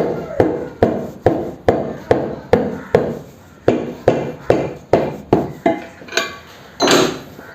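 Hammer striking metal in a steady rhythm, about two and a half blows a second, each blow ringing briefly. Near the end comes a short rushing scrape.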